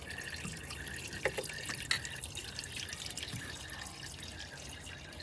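Water trickling and dripping, with a few faint clicks.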